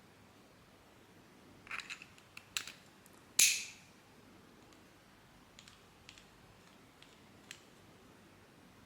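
3D-printed plastic parts clicking and snapping together as they are fitted: a cluster of sharp clicks about two seconds in, one loud snap about three and a half seconds in, then a few fainter clicks.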